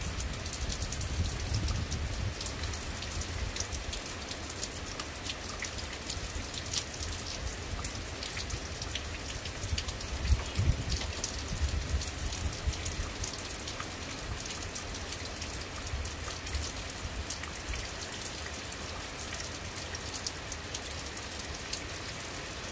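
Steady rain falling on a terrace garden, with many separate drops tapping on plants, pots and the wet floor.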